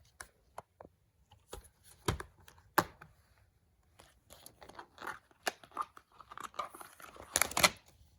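Hands handling a plastic DVD case and its paper inserts: a few sharp plastic clicks and knocks, then paper rustling and crinkling, with a louder burst of handling noise near the end.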